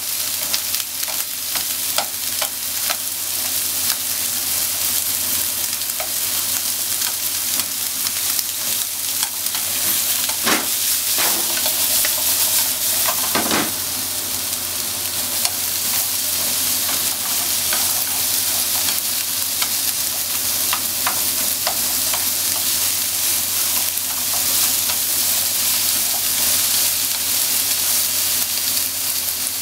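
Sliced onions sizzling in a hot nonstick frying pan, steady frying hiss, stirred with wooden chopsticks that tap and scrape against the pan now and then.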